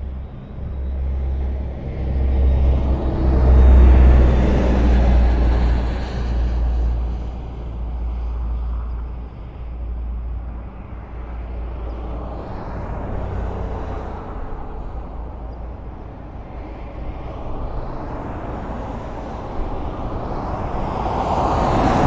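Highway traffic: a steady wash of engine rumble and tyre noise as vehicles pass, swelling loudest about four seconds in and building again near the end as more vehicles go by.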